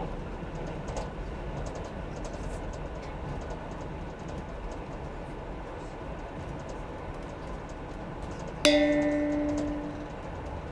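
Train running steadily through a tunnel: a low rumble with faint clicking from the wheels on the track. Near the end, a single sudden chime-like tone sounds, ringing out and fading over about a second and a half.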